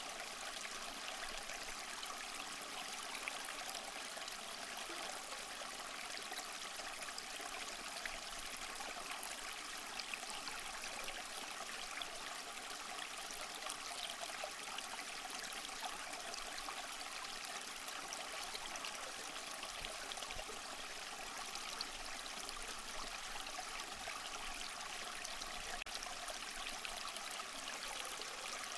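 Small waterfall splashing and trickling steadily, a light even rush of falling water with little low rumble.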